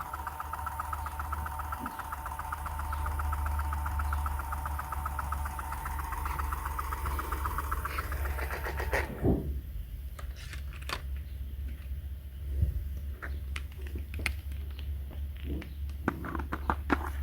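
A small electric motor runs with a steady, fast-pulsing hum, then switches off about nine seconds in with a short falling whine. After that come scattered light clicks and taps of plastic being handled.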